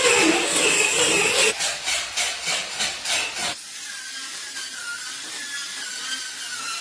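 Workshop tool work on a car body: about two seconds of rhythmic scraping strokes, a few a second, then a quieter steady hiss with a faint wavering whine.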